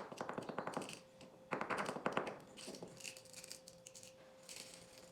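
Salt crystals poured into a wooden salt grinder: a dense, rapid patter of grains falling in, in two pours, the second ending a little after two seconds in, followed by fainter scattered ticks of settling grains.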